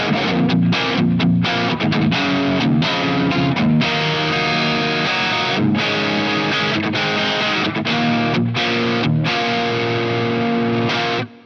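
Covenant Innovator I-STD electric guitar played through distortion: a stretch of quick, choppy notes, then longer held notes and chords, stopping abruptly near the end.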